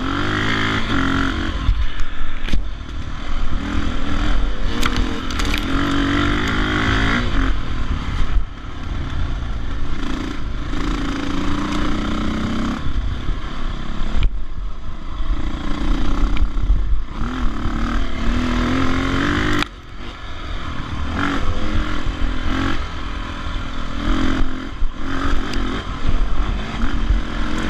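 Dirt bike engine revving hard and easing off again and again under load on a climb, with knocks and clatter from the bike over rough ground. The engine drops away briefly about twenty seconds in, then picks up again.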